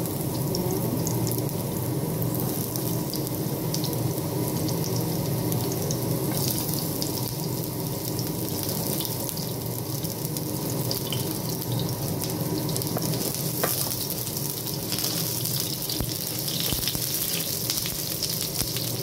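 Chopped red onion and garlic sizzling steadily in hot oil in a nonstick frying pan, with fine crackles over a low hum.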